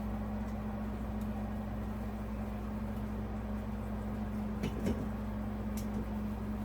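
Steady low hum throughout, with a few light clicks and a small knock about five seconds in from ceiling fan parts and screws being handled during assembly.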